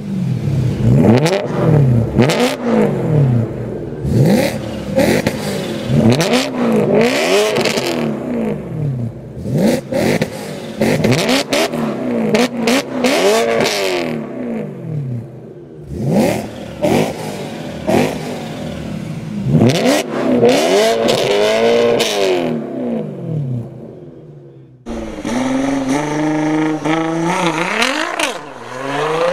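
BMW M3 E92 V8s on aftermarket Kreissieg and Akrapovic exhausts revved hard over and over, the pitch sweeping up and falling back, with sharp cracks between revs. About 25 seconds in, a Nissan GT-R R35's twin-turbo V6 accelerates hard from a launch, its pitch climbing, dropping once at a gear change near the end, then climbing again.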